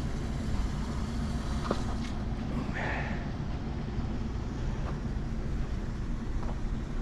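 Pickup truck engine running steadily, a low even hum, with a few faint clicks and a short higher-pitched sound about three seconds in.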